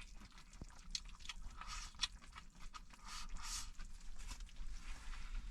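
A cooking utensil clicking and scraping against a pan as meat and cabbage are stirred, with short crackling stretches twice.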